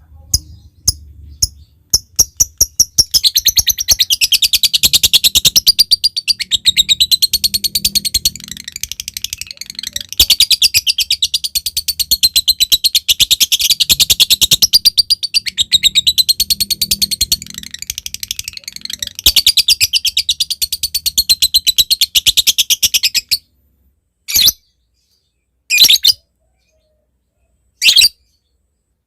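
Lovebird ticking in quick separate clicks, then breaking into a long, fast, rattling chatter (the 'ngekek'). The chatter runs for about twenty seconds and cuts off suddenly, followed by three short calls.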